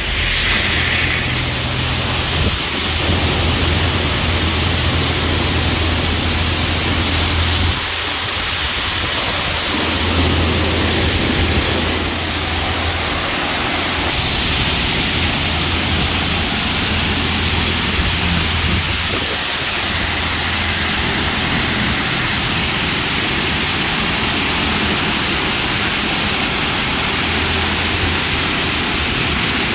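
Touch-free automatic car wash's high-pressure water jets spraying against a pickup truck, a loud steady hiss of water. A low hum comes and goes underneath.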